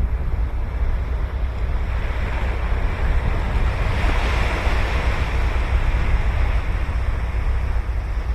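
Ocean surf on a beach: a wave's wash swells to a hissing peak about halfway through, then fades. Under it runs a steady low rumble of wind on the microphone.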